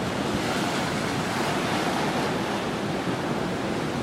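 Steady rushing noise, even in level, with no distinct knocks or tones.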